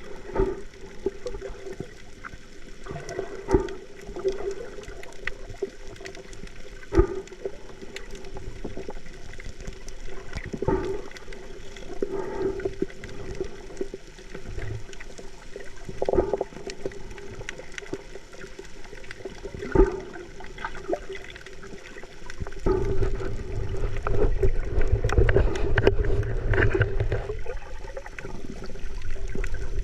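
Water sloshing and gurgling, with a steady low hum, sharp knocks every few seconds, and a louder low rumble setting in about three quarters of the way through.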